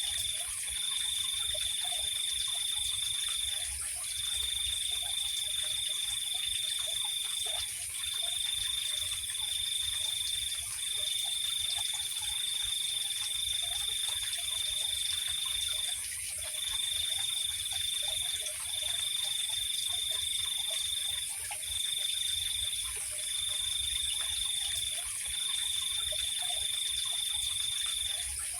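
Night chorus of crickets and frogs: a high, steady cricket trill in long runs of one to five seconds with short breaks, over a constant higher insect hum and faint, short, low frog calls.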